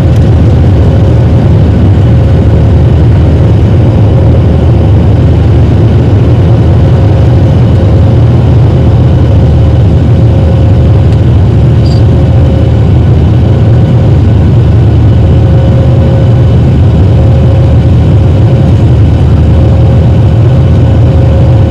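Cabin noise aboard a Boeing 737-900 under climb power: its CFM56 turbofans and the rushing air make a loud, steady low rumble, with a constant hum running through it.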